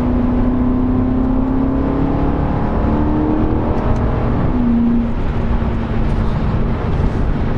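Mercedes-AMG C63's 4.0-litre twin-turbo V8 running in Sport Plus mode while driving, a steady drone that climbs a little in pitch, then drops about four and a half seconds in and holds.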